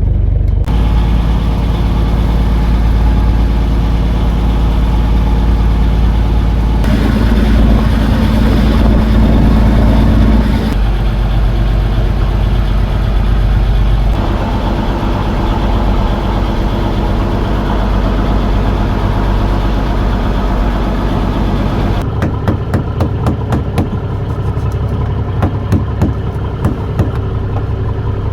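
Boat engine running steadily, its note shifting several times as the speed changes. About two-thirds of the way through it settles to a lower, lighter run with a rapid clicking on top.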